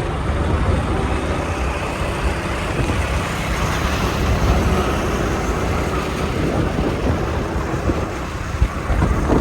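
Motorcycle riding noise: steady engine, tyre and road rumble with wind rushing and buffeting over the microphone.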